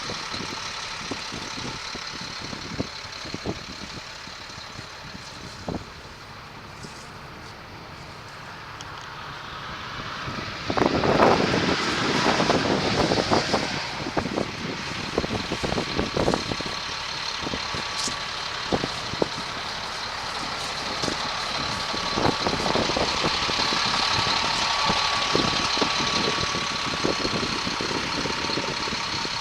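Diesel engine of a 2005 Sterling tandem-axle flatbed truck running, with a steady high-pitched whine over it. It gets louder about eleven seconds in, with scattered knocks and clatter.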